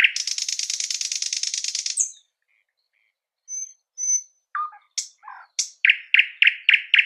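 A songbird singing: a rapid, dry trill for about two seconds, a short pause with a few thin high notes and brief calls, then a run of clear repeated notes, about four a second, that runs straight into the trill again near the end.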